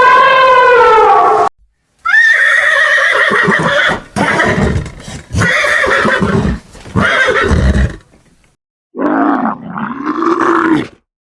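A series of loud animal calls in separate clips. A drawn-out pitched call cuts off about a second and a half in. After a short silence comes a long run of rough, loud calls, then one more pitched call near the end.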